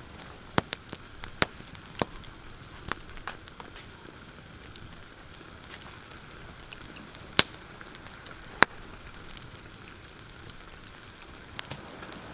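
Campfire crackling: sharp, scattered pops over a soft steady hiss, the two loudest pops about seven and a half and eight and a half seconds in.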